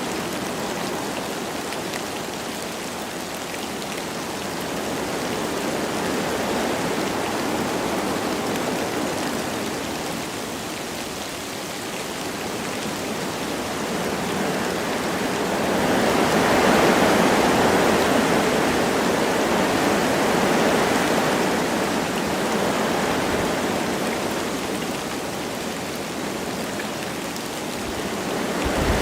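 Wind rushing through forest trees with light rain falling, the noise swelling and easing in slow gusts, strongest a little past halfway.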